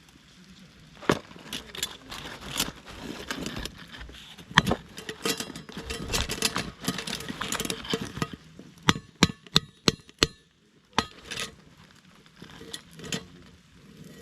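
Knocks and clinks of hard objects being handled, with a quick run of sharp clicks about nine seconds in.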